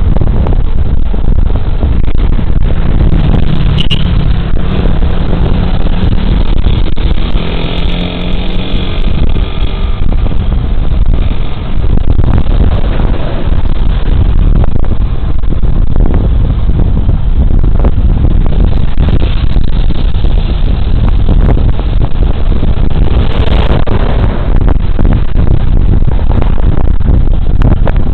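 Riding sound recorded on a scooter rider's body camera: heavy wind buffeting on the microphone over the Suzuki Burgman Street 125's small single-cylinder engine and road noise. About a third of the way in, another vehicle passes, its engine note sliding down in pitch.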